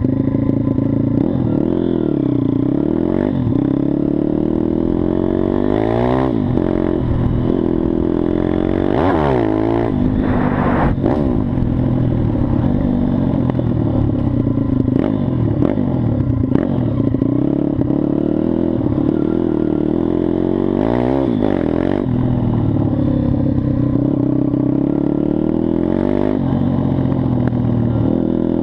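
Mojo KLX 160 supermoto pit bike's small single-cylinder engine running hard, its pitch rising and falling over and over as the throttle is opened and closed, with several quick drops and climbs in revs.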